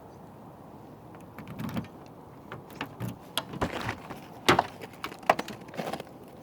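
A string of irregular clicks and knocks, a few sharp ones louder than the rest, typical of handling a car door and keys; no engine is running.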